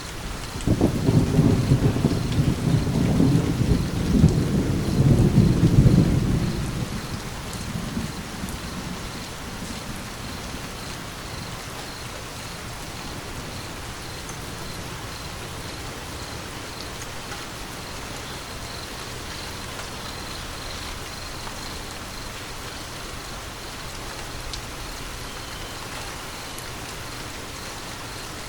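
Steady rain with a rolling rumble of thunder that starts about a second in, swells for several seconds and dies away well before the middle, leaving the rain alone.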